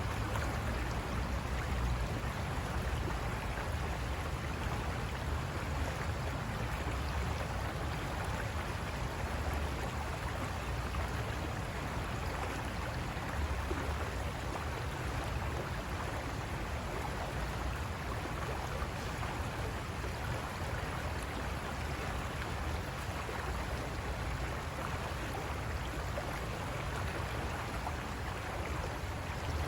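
River water rushing over rocks: a steady, unbroken rush with a deep low rumble underneath.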